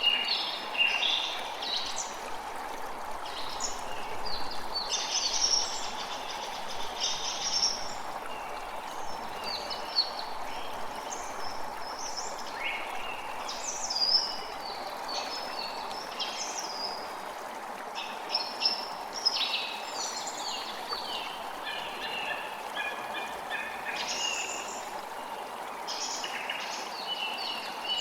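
Forest birds singing in a busy chorus of quick chirps and trills over the steady rush of a creek.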